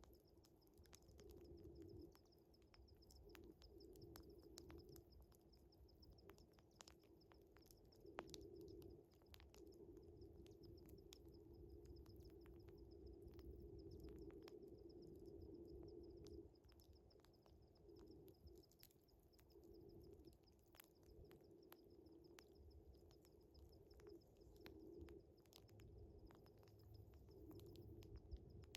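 Faint wood fire crackling with scattered sharp pops, over a steady, high, pulsing cricket trill. A low hum comes and goes underneath.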